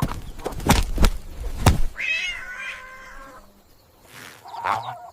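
Three sharp thuds, then a cat meowing: one long drawn-out meow about two seconds in and a shorter call near the end.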